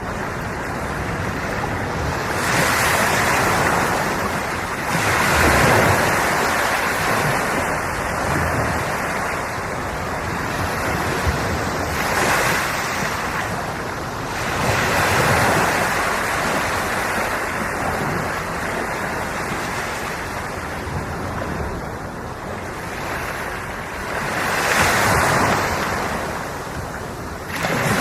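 Sea surf: waves breaking and washing over the shore in a continuous rush, swelling louder in several irregular surges as larger waves come in.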